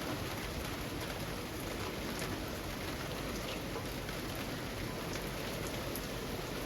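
Steady summer rain falling through leafy trees: an even hiss of rain with scattered single drops ticking.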